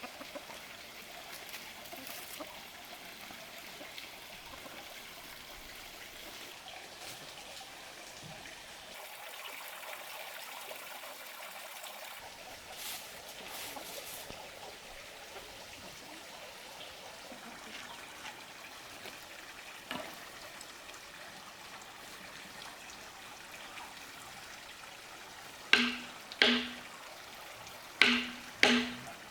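Faint steady trickle of running water, then four sharp knocks in two quick pairs near the end, each with a short ring, like a tool striking wood.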